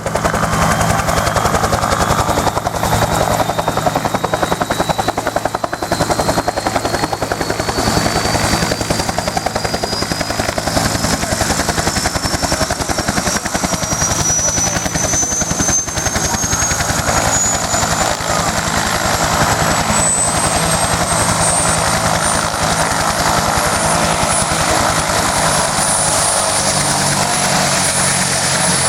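UH-1 Huey helicopter's turbine engine and rotor running, the turbine's whine rising steadily in pitch for over twenty seconds as it spools up, then holding steady near the end.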